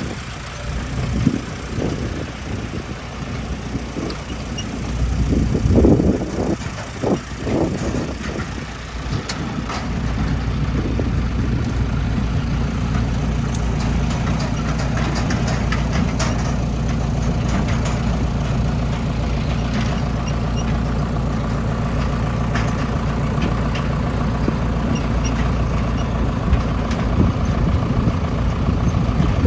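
Diesel engines of a backhoe loader and tractors running, with irregular louder surges in the first third, then a steady drone.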